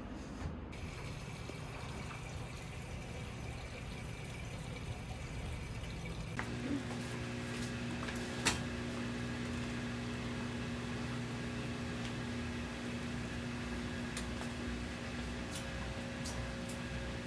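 A household appliance switches on about six seconds in and runs with a steady electric hum, with a sharp click a couple of seconds later, over a low background hum.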